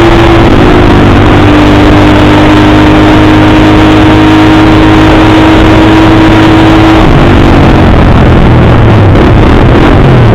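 Dirt bike engine running loud and distorted at a fairly steady speed, its pitch stepping down slightly about half a second in and shifting again around seven seconds in.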